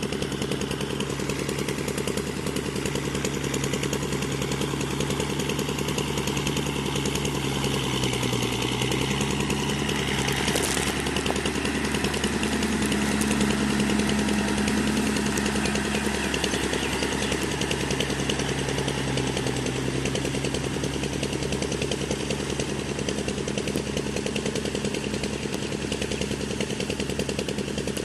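Kubota MU4501 tractor's diesel engine running steadily under load while driving a rotavator. Its note dips briefly about eight seconds in, then picks up and is a little louder for a few seconds.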